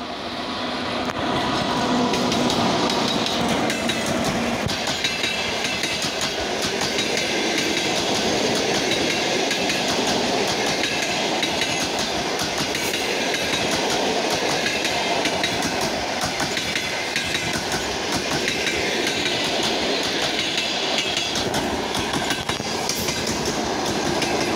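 Passenger train passing close by: the electric locomotive comes up and goes past over the first couple of seconds, then the coaches roll by with a steady clickety-clack of wheels over the rail joints.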